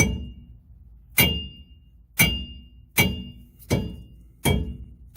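Hammer blows on the stuck rear axle shaft of a 2004 Dodge Ram 1500, six hard metal-on-metal clangs about a second apart, each ringing briefly. The axle won't come free because the blown wheel bearing has welded itself to the axle.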